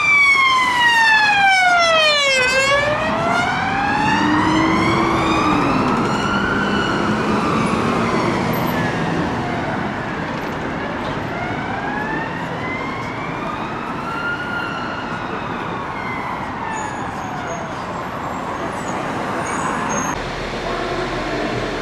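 Emergency vehicle siren on a slow wail, its pitch falling and rising in long sweeps of several seconds each, over traffic noise, growing gradually fainter.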